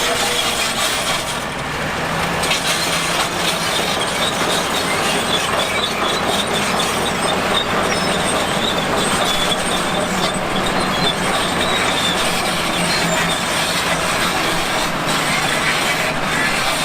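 Tracked heavy machine working: its diesel engine runs steadily while the steel crawler tracks squeal and clank.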